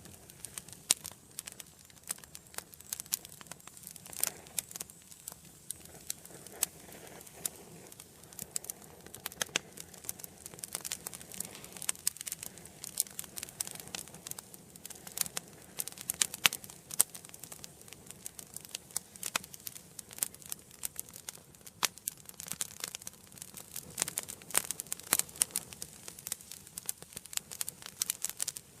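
Wood fire burning in an indoor fireplace, crackling and popping in dense, irregular snaps over a soft hiss of flame.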